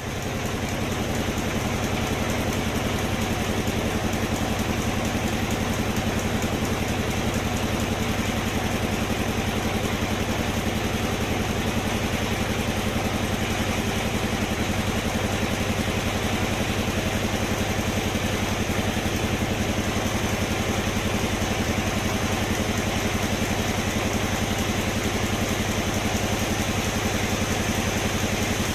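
Sawmill machinery running steadily: a constant engine-like drone with a fast, even pulse that starts abruptly and holds unchanged.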